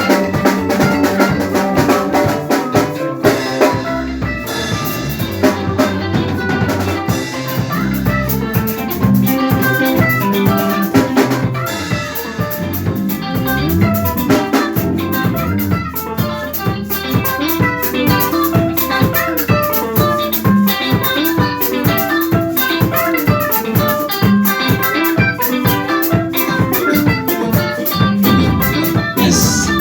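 Live band music: a drum kit keeping a steady, even beat under picked electric guitar lines.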